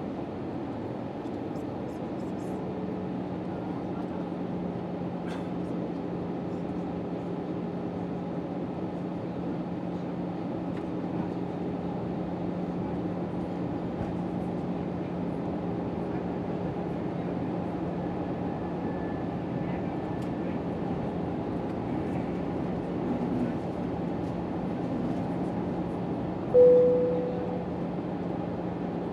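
Steady cabin noise inside an Airbus A319 airliner in flight: a continuous rush of air and engine drone with a constant low hum. A single cabin chime rings out near the end and fades.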